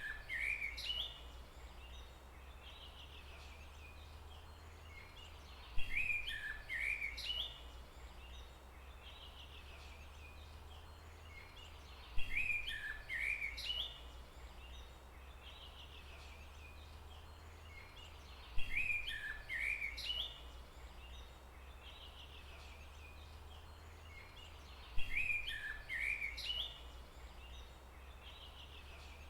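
Forest songbird singing a short chirping phrase of about two seconds, repeated in the same form about every six seconds, over a steady low rumble and faint background ambience.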